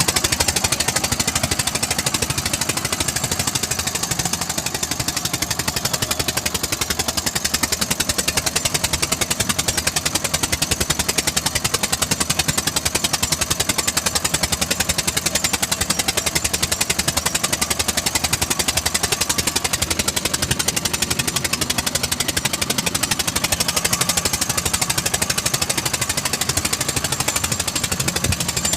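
Eicher tractor's diesel engine running steadily with a rapid, even knocking exhaust beat.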